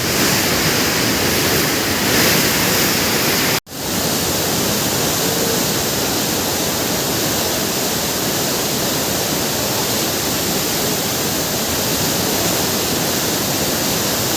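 Waterfall: falling water rushing loudly and steadily, with a split-second dropout about three and a half seconds in.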